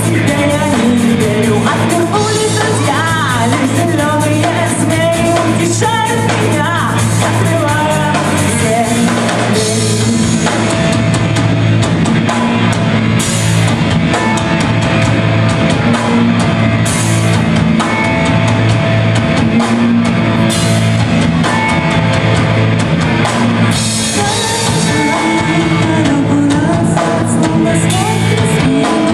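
Live heavy rock band playing at full volume: drum kit, distorted guitars and bass.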